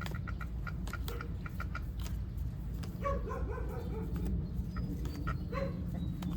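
Repeated animal calls, a quick series of short calls followed by a few longer ones, over a steady low rumble.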